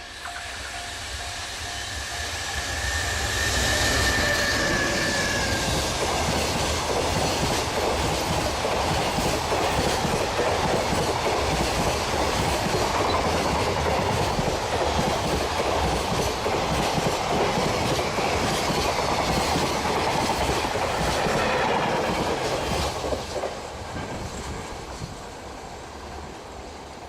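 Freight train hauled by an EH500 electric locomotive passing close by. It grows louder for the first few seconds, then the wagons clatter over the rail joints for nearly twenty seconds, and the sound fades away over the last few seconds.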